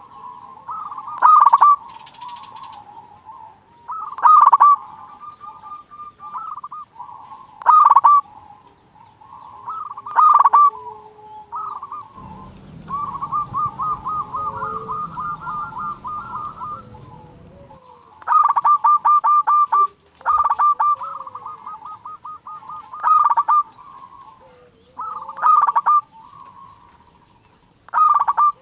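Zebra doves (perkutut) cooing again and again, short calls every second or two with a long rapid rolling coo in the middle. Faint high chirps from smaller birds sound above them.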